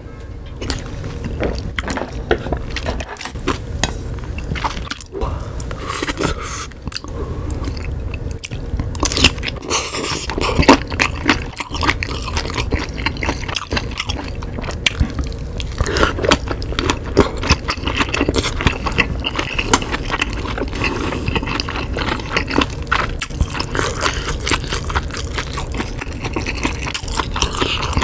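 Close-miked eating sounds: a person chewing instant ramen noodles and kielbasa sausage, with a dense run of wet mouth clicks and smacks. There is a sip of broth from a spoon at the start.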